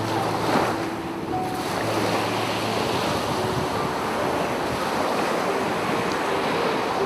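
Sea waves washing and breaking on a beach, with surges about half a second in and near the end, over faint piano notes.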